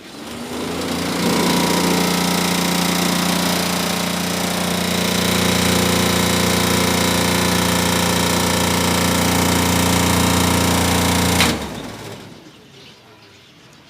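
DC air room cooler running with a loud steady buzzing drone made of several fixed tones. It is switched off about eleven and a half seconds in and dies away within a second. The noise is the cooler's running-noise fault that the owner sets out to cure.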